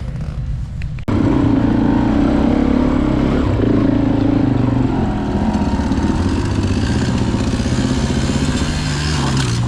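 Small dirt bike engine, a 1984 Honda XL100's single-cylinder four-stroke, running. It jumps sharply louder about a second in and keeps running hard, the pitch climbing a little near the end.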